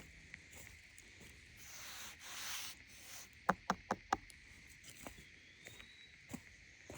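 Footsteps on a woodland trail over a steady high insect drone, with a swish of brushing through vegetation about two seconds in and four quick sharp clicks a second or so later.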